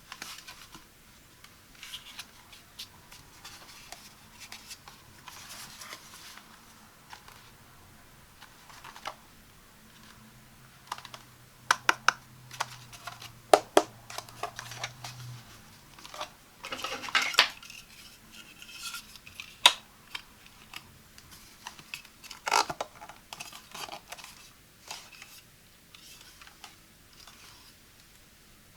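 Hands unpacking and handling a BLACK+DECKER Dustbuster handheld vacuum and its packaging: scattered plastic clicks and taps with short bouts of scratching and rustling, loudest in the middle. The vacuum motor is not running.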